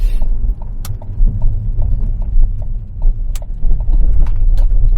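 Car driving slowly, heard from inside the cabin: a steady low road rumble with scattered small ticks and a few sharper clicks.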